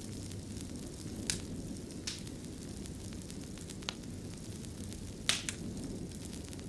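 Fireplace fire burning with a steady low rumble, broken by sharp crackling pops about five times, two of them close together near the end.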